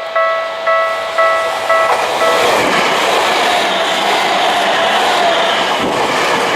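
Japanese level-crossing warning bell ringing about twice a second; from about two and a half seconds in a train runs through the crossing, and its steady rumble and wheel noise drown out the bell.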